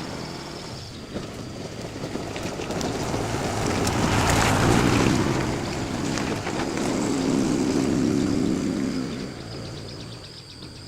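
A motor vehicle's engine running, growing louder towards the middle and fading near the end.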